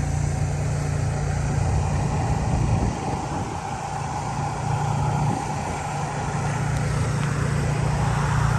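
Steady low hum of motor vehicle engines and road traffic.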